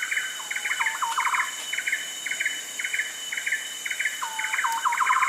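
Rainforest bird calls: a bird repeats quick clusters of short chirps about twice a second, over a steady high-pitched insect drone.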